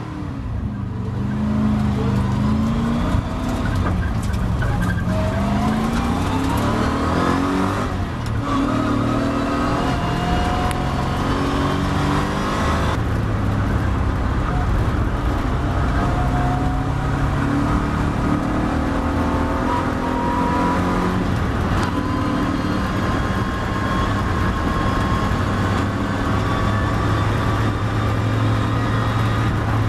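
Triumph TR7 race car's engine heard from inside the car, pulling away from a standstill and accelerating hard up through the gears. Its pitch climbs in several rising sweeps, each cut short by a gear change, during the first half, then it runs at high revs at speed.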